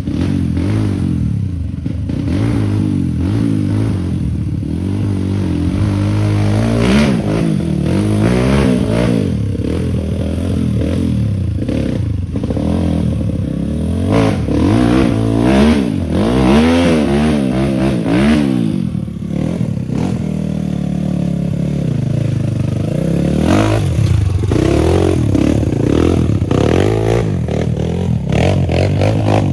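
Suzuki TS125X trail bike's two-stroke single-cylinder engine under load, the revs rising and falling again and again as it is ridden over rough ground, with clattering and scraping from the bike.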